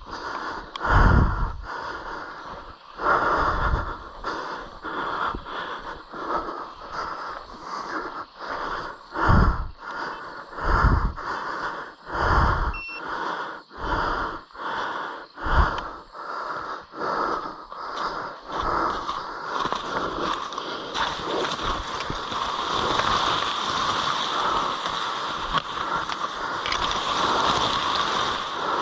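A man breathing hard in quick, regular gasps, about one and a half a second, while moving on foot, with low thumps in step with them. From about twenty seconds in, a steadier rushing, rustling noise takes over.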